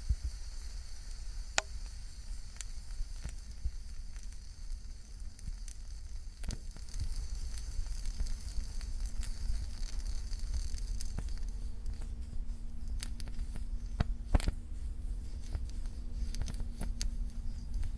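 Real Flame gel fuel can burning with a faint crackle: scattered small pops and ticks over a low steady rumble, coming more often in the second half. Not super loud.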